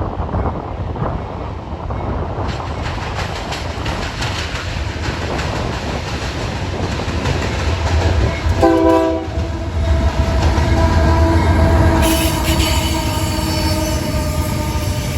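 A train rolling past, its cars rumbling and clicking over the rail joints. The locomotive horn sounds about nine seconds in with a loud blast and holds on as a steady chord. A higher hiss, like wheel squeal, joins near the end.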